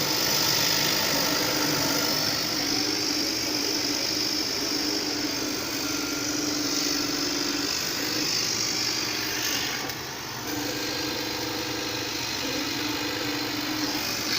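Homemade CO2 laser cutter running a cut: its stepper motors hum as the head moves, the pitch changing between moves over a steady hiss, with a brief drop about ten seconds in.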